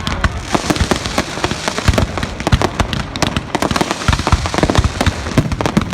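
Fireworks going off in a dense, continuous run of sharp bangs and crackling pops, several a second, at irregular intervals.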